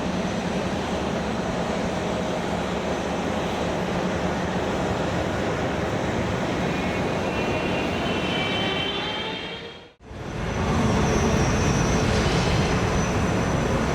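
Boeing 777 freighter's twin GE90 turbofan engines at takeoff power: a loud, steady jet roar with a deep rumble and a thin whine that rises. The sound cuts out for an instant about ten seconds in, then the roar comes back louder.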